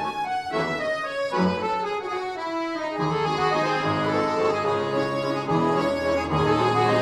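Orchestra of bayans (Russian button accordions) playing sustained chords and melody. The low bass mostly drops out about half a second in and comes back in full about three seconds in.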